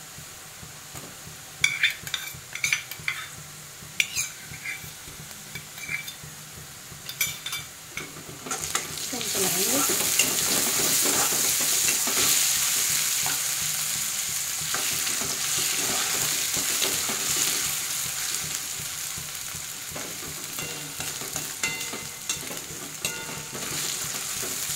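Chopped onions frying in oil in a metal kadhai, with a metal spatula scraping and tapping against the pan as they are stirred. About eight seconds in, the sizzling turns much louder and stays loud.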